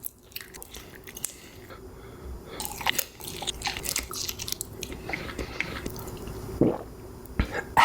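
A person chewing and biting food close to the microphone, with irregular clicks and crunches.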